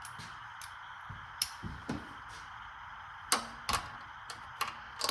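Scattered clicks and knocks of hand tools against metal as a carburetor is worked on a Craftsman V-twin engine. The two loudest knocks come close together a little past halfway, over a steady faint hiss.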